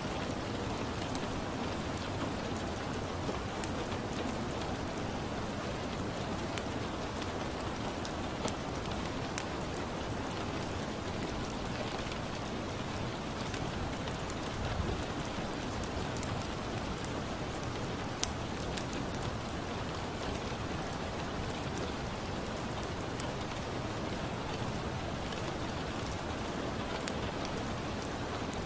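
Steady rain with a wood fire crackling now and then, in irregular sharp snaps.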